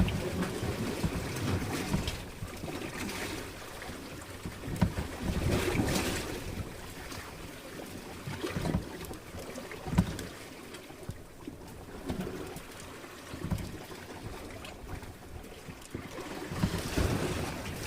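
Small fishing boat under way at sea while trolling, with a steady rush of wind and water and irregular gusting thumps against the microphone.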